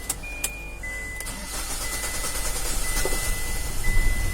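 Hyundai Xcent being cranked by its starter without catching straight away, the long crank of a hard-starting engine. The cranking grows steadily louder, with a thin steady high tone that breaks off briefly about once a second.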